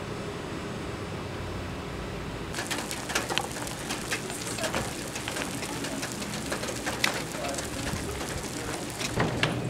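Birds calling over a steady low background noise, with many short, sharp clicks starting about two and a half seconds in.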